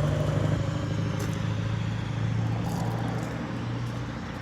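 Four-cylinder Willys Go Devil L134 flathead engine running steadily at a low, even hum, easing slightly in pitch about a second in and fading a little toward the end.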